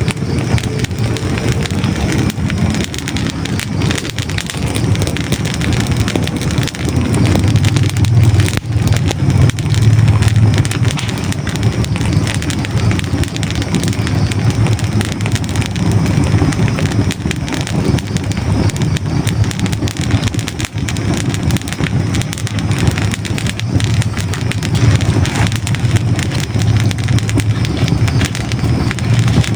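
Hardwood logs burning in a fireplace, recorded close up: dense crackling and popping over a steady low rumble.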